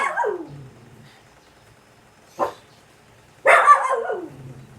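A dog barking a few times: a short bark about halfway through and a longer, louder bark with a falling pitch near the end.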